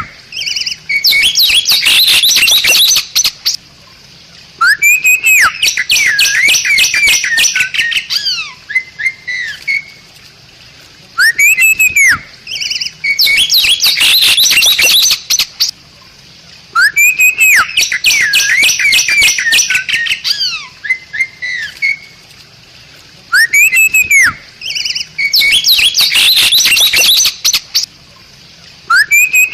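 Bali myna singing: each phrase opens with a clear whistle that rises and falls, then breaks into a two- to three-second run of rapid, harsh chattering notes. The phrase comes again about every six seconds, five times.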